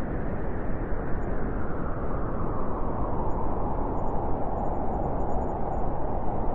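Gale-force blizzard wind blowing steadily: a dense rushing noise with most of its weight low down.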